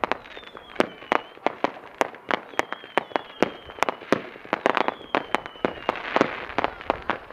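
Fireworks going off in quick, irregular succession, several sharp bangs a second, with a thin high whistle gliding slightly down in pitch three times.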